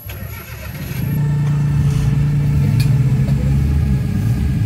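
Suzuki Jimny engine running steadily at an even speed, loud and close, coming in about a second in.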